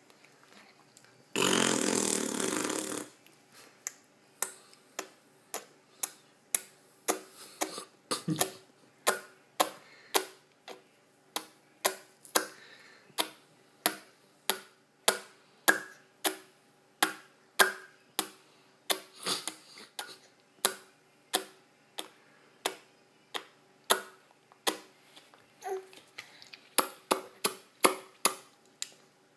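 A baby making a long run of short, sharp throaty clicks, about one to two a second. A loud noisy burst comes about one and a half seconds in.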